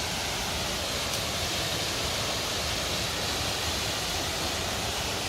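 Steady rush of a river and waterfall, an even hiss with no breaks.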